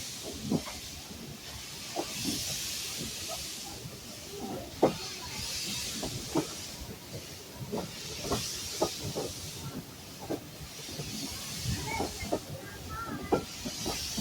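Steam locomotive giving off slow, rhythmic surges of steam hiss, about one every second and a half to two seconds, with occasional short clanks and knocks.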